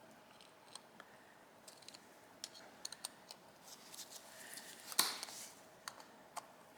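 Small metallic clicks of pliers being set on a seized carburetor screw, then one sharp crack about five seconds in as the screw breaks loose.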